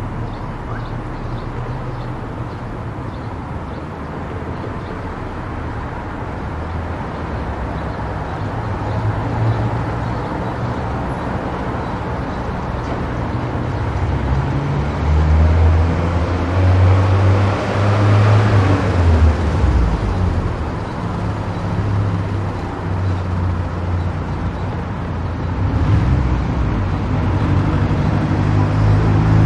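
Car driving on a highway: steady tyre and road noise over a low engine hum, swelling louder for a few seconds just past the middle, then easing off.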